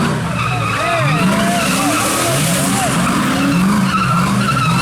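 Car engine revving up and dropping back over and over while its tyres squeal and spin on the pavement, as a car does donuts.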